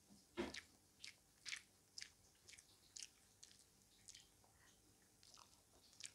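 Quiet close-miked chewing of chicken with the mouth closed: short, wet clicks about twice a second, the loudest about half a second in.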